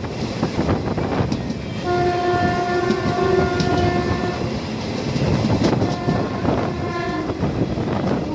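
Passenger train running on a curve, wheels clattering over the rail joints. An electric locomotive's horn sounds one long steady blast about two seconds in, then shorter blasts around six to seven seconds.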